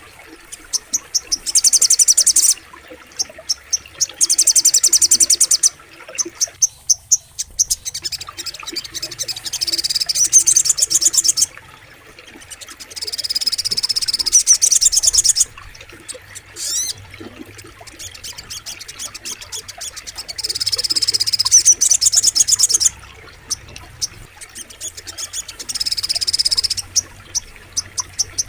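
Sogok ontong birdsong played as a masteran training recording: bouts of rapid high-pitched chirping notes, each lasting one to three seconds, repeating every few seconds over a steady background chorus of frogs and insects.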